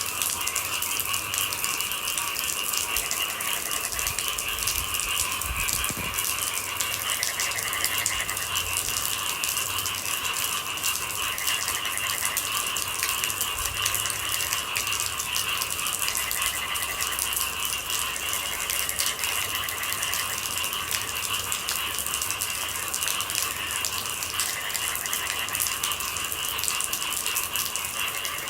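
Steady rain pattering, with a continuous trilling chorus of night animals over it and separate shorter trills coming and going every few seconds.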